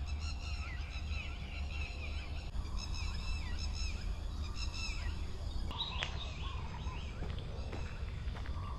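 Birds chirping and calling in short, repeated rising-and-falling phrases over a steady low rumble.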